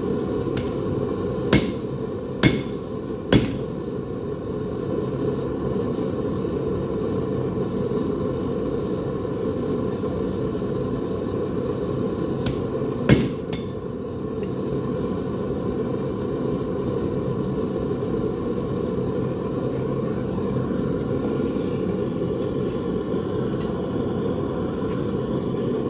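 A blacksmith's hammer striking metal: three blows about a second apart near the start, then another pair close together around the middle, over a steady low noise.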